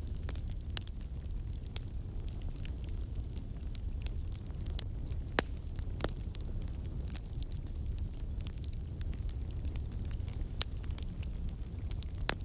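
Wood fire burning in a fireplace: a steady low rumble of the flames with scattered sharp crackles and pops, a few louder pops about five to six seconds in.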